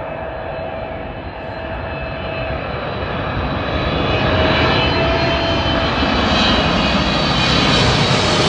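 Boeing 777-300ER's GE90 turbofan engines on landing approach: a rumble with several steady whining tones, growing steadily louder as the jet comes closer.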